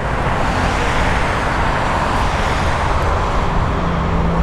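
Jet airliner engines running, a steady loud rushing noise; a low steady hum joins it about three and a half seconds in.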